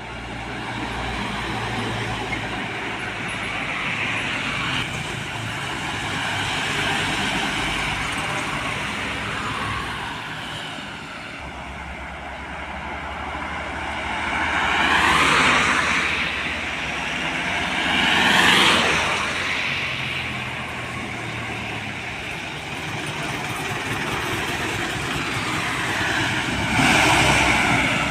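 Road traffic with heavy trucks and buses driving past close by, one after another. Three pass-bys stand out loudest, each swelling and fading: about halfway through, a few seconds later, and near the end.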